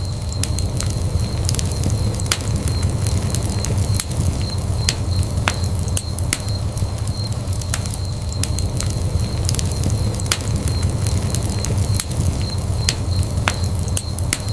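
Fire burning in a fireplace: a steady low rumble of flame with frequent sharp, irregular crackles and pops.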